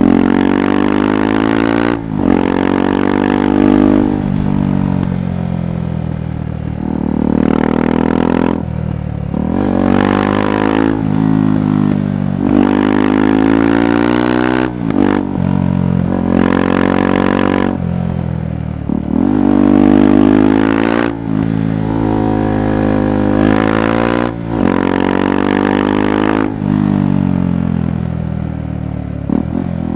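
KTM 390 Adventure's single-cylinder engine pulling through the gears: its pitch climbs under throttle, breaks off briefly at each gear change or throttle lift, and then climbs again, about a dozen times over the half minute.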